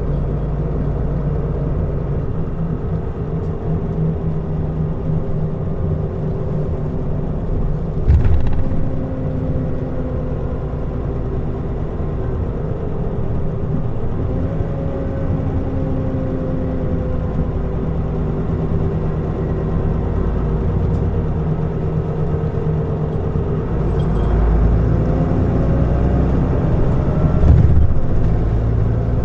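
Mitsubishi Fuso Aerostar city bus under way: its diesel engine runs with the pitch sliding up and down as the bus changes speed, over a steady low rumble. There is a thump about eight seconds in and another near the end.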